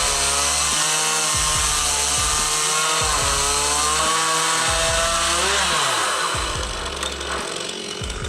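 Chainsaw running under load, cutting through wood, on a chainsaw mill. Its engine pitch wavers and drops about two thirds of the way in, and the cutting sound eases toward the end. A low beat pulses underneath about every second and a half.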